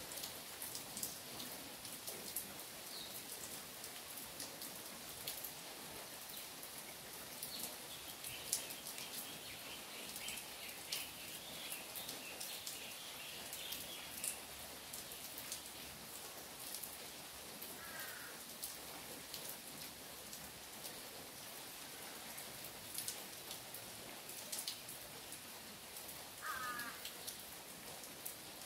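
Rain falling on trees and ground during a sun shower, an even patter with many sharp single drops. Two brief bird calls come in the second half.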